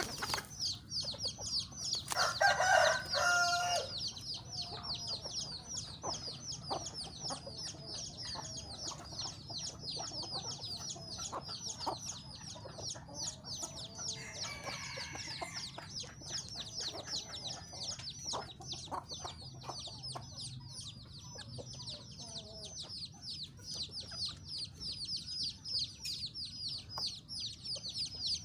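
Domestic chickens clucking, with a rooster crowing about two seconds in. Rapid high chirping runs on continuously.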